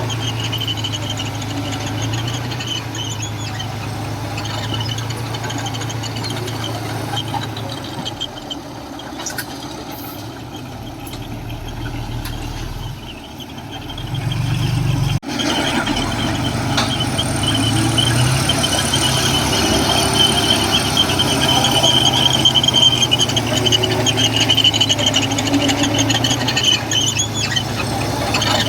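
Heavy diesel engine of a Komatsu bulldozer running steadily with a high-pitched squeal over it. There is an abrupt break about halfway through, after which everything is louder.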